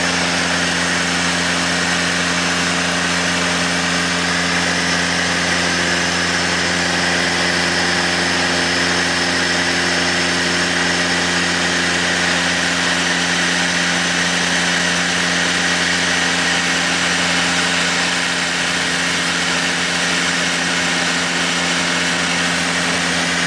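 Steady drone of a Piper Seminole twin's piston engines and propellers heard inside the cabin in flight, with a constant high whine over the low hum. An extra tone joins about five seconds in, and the pitch shifts slightly near the end.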